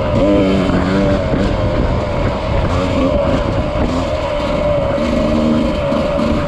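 Riding noise from a mountain bike on a trail: a steady hum over a constant low rumble.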